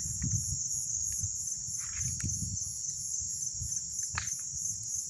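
Crickets trilling at dusk: a steady high-pitched shrill with a fast, even pulsing, and a few faint clicks underneath.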